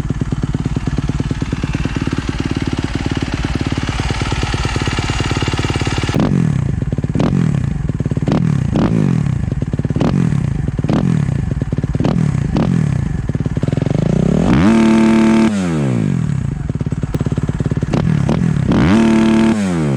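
2017 Suzuki RM-Z250 single-cylinder four-stroke engine through a full titanium exhaust system, idling fast and steadily, then blipped about eight times in quick succession, each rev rising and falling in pitch. Twice near the end it is held flat out at the top of the revs, hitting the rev limiter.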